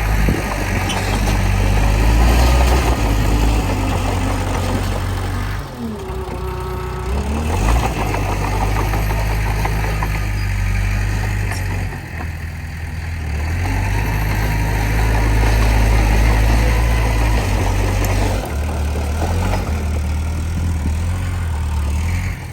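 Komatsu D20P bulldozer's diesel engine working under load, a loud low rumble that eases off briefly three times as the load changes. A short falling-then-rising squeal sounds about six seconds in.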